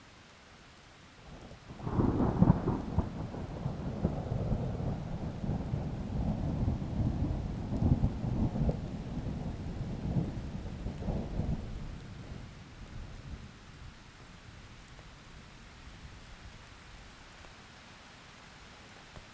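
Thunder: a sudden clap about two seconds in rolls into a long, deep rumble with several louder cracks, fading away by about fourteen seconds. Faint steady rain hiss lies underneath throughout.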